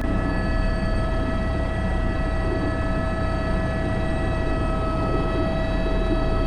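Airbus H125 helicopter in flight: the steady whine of its single turboshaft engine and gearbox over the constant low rumble of the rotor, with no change in pitch or level.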